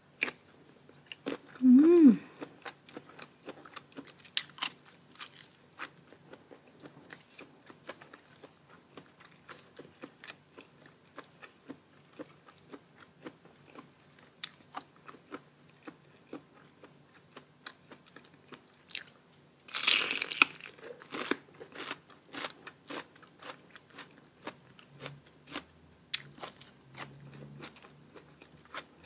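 Close-up eating sounds: a person biting, crunching and chewing crisp spicy papaya salad with shrimp and raw vegetables, in many small rapid crunches. A brief hummed sound near the start, and a louder rush of noise lasting under a second about two-thirds of the way in.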